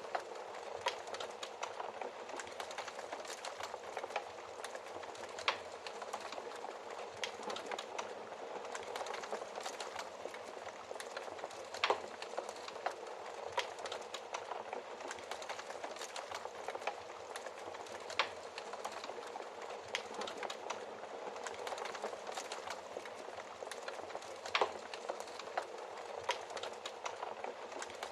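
Wood fire crackling: a steady hiss with frequent small pops and snaps, and a few louder sharp pops.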